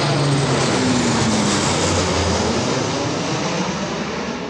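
Military aircraft passing overhead: loud engine noise with tones that drop in pitch as it goes by, fading toward the end.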